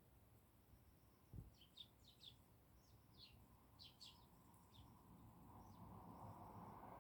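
Eurasian tree sparrows chirping faintly, a scatter of short falling chirps. There is a soft low thump about a second and a half in, and a low rushing noise swells near the end.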